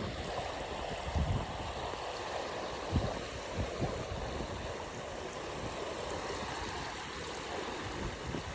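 Steady wash of small waves on a beach, with a few brief low thumps about a second in and around three to four seconds in.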